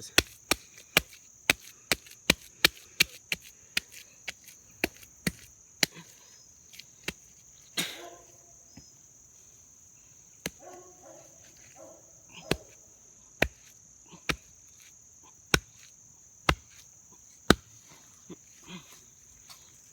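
A string of sharp knocks, coming quickly at first, about two a second, and then more spaced out, over the steady high chirring of insects.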